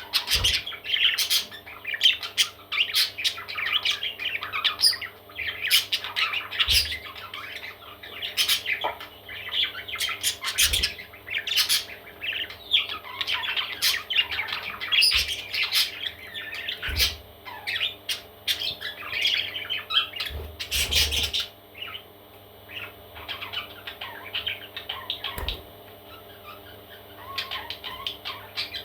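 Parrot chicks squawking and calling over one another in rapid, overlapping short calls, which thin out about two-thirds of the way through.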